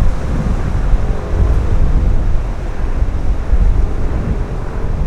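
Strong wind buffeting the microphone, a gusting low rumble. From about a second in, a faint steady hum sits underneath it.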